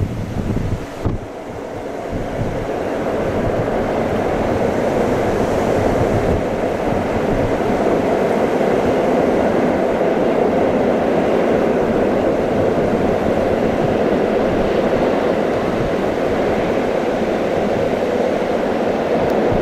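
Passenger train approaching on the rails: a steady rumbling rolling noise that grows over the first few seconds and then holds, with some wind on the microphone.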